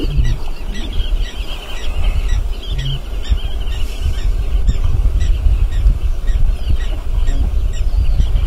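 A continuous, rapid chatter of high, squawking bird calls over a steady low rumble.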